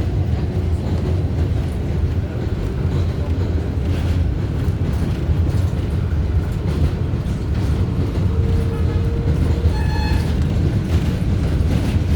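R188 subway train running along the track, a steady low rumble of wheels and car body with a faint motor whine, and a brief high-pitched squeal about ten seconds in.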